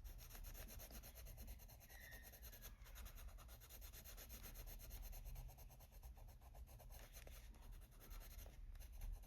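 Faint, steady scratching of a colored pencil rubbed back and forth on paper with firm pressure, blending layers of color.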